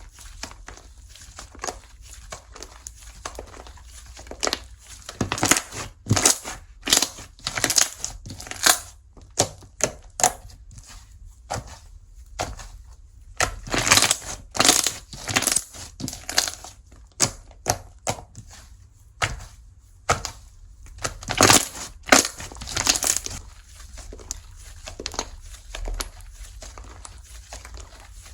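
Slime being squeezed and pressed by hand, making irregular crackling pops and clicks that come in several dense clusters.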